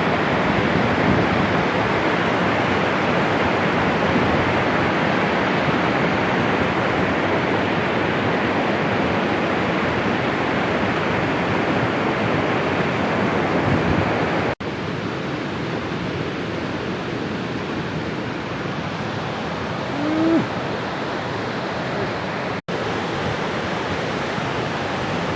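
Steady rushing roar of a large waterfall, an even unbroken noise. It cuts out for an instant twice, dropping slightly in level after the first break.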